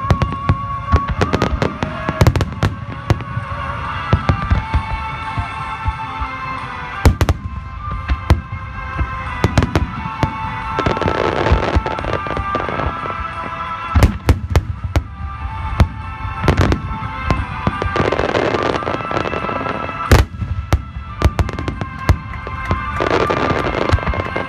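Aerial firework shells bursting in rapid succession, sharp booms again and again, with three spells of thick crackling, about a third, three quarters and near the end of the way through. Music with long held notes plays underneath.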